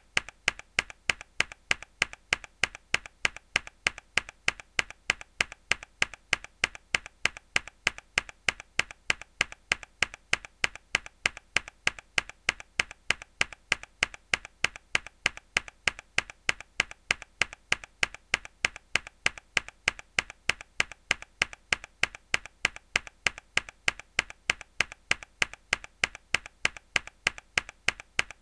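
A single hard key press on a mechanical keyboard, looped: one sharp, crisp click repeated at a quick, perfectly even rhythm.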